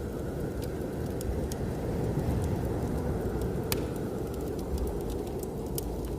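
Wood fire crackling, with scattered sharp pops and one louder pop about midway, over a steady low noise of blizzard wind.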